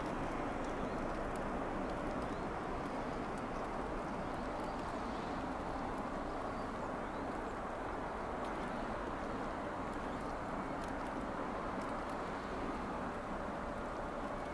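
Steady low rumble and hiss of a snowy railway line, with a distant electric train approaching; a thin steady tone from it comes in near the end.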